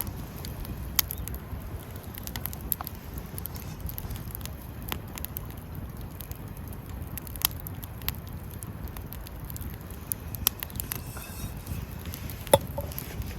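Wood campfire burning, crackling with scattered sharp pops over a low steady rumble; one louder pop near the end.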